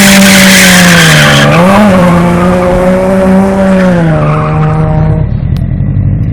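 Car engine held at high revs while drifting, with tyre squeal and skid noise loud over it for about the first second and a half. The revs dip and pick up again about a second and a half in, fall near four seconds, and the engine note dies away about five seconds in.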